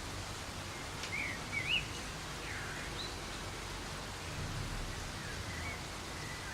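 Soft rain falling steadily as an even hiss. A bird gives a few short chirps that rise and fall, between one and three seconds in, and a fainter call near the end.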